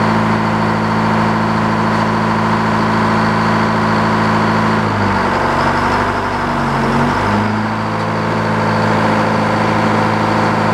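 Sawmill's engine running with the blade engaged, sawing slowly through a pine log. The engine's pitch dips briefly about halfway through, then recovers.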